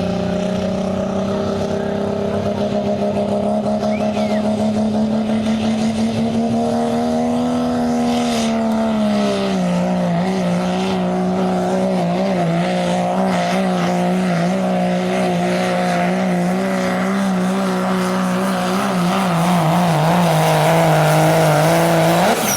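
Turbocharged diesel pulling truck's engine running hard under load, a steady high-revving note that climbs slightly, drops a step about nine seconds in and holds, then begins to fall away at the very end.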